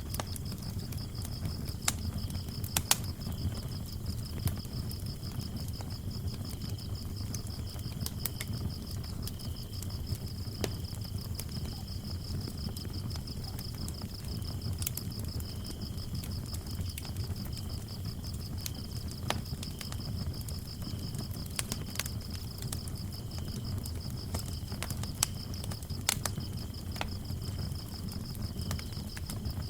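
Wood fire crackling in a fireplace: a low rumble of flames with scattered sharp pops and snaps. Crickets chirp steadily over it in a high, fast pulsing trill, with a second, lower cricket chirping on and off.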